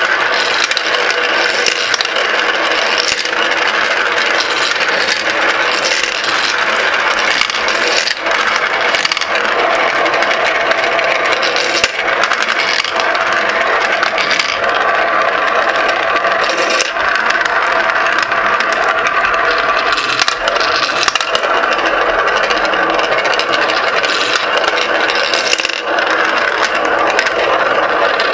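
Many glass marbles rolling and clattering continuously through a marble run, a dense, steady rattle of small clicks and scraping.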